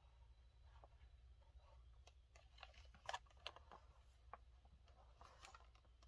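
Faint handling of a die-cast car's packaging over a low steady hum: a scatter of light clicks and taps, with a quick cluster of sharper ones about three seconds in and a few more near the end.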